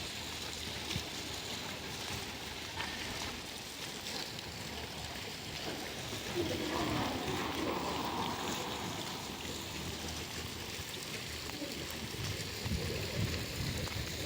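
Steady rushing outdoor background noise, with faint distant voices talking from about six seconds in and again near the end.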